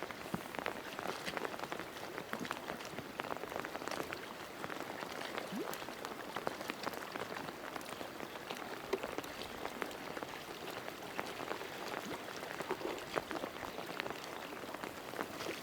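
Rain pattering steadily, a dense, irregular patter of small drop ticks with no rhythm.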